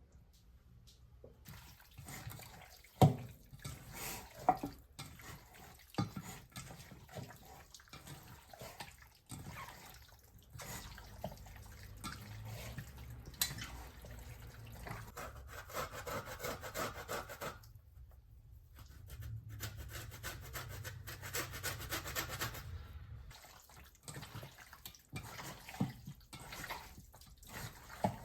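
Kitchen preparation sounds: scattered knocks and clicks of utensils and containers being handled, with water running from a tap in two stretches of a few seconds each, in the middle and around two-thirds of the way through.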